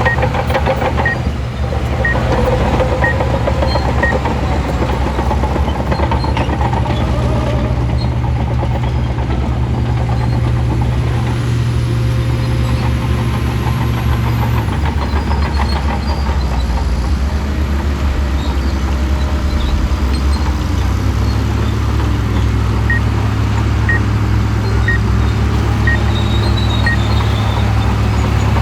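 Diesel engine of a Shantui crawler bulldozer running loud and steady under load. Its pitch drops about halfway through and comes back up, a little lower, a few seconds later.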